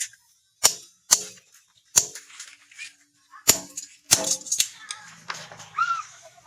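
Hammer blows on steel rebar at the anvil: about eight sharp metallic strikes at an uneven pace, each with a short ring.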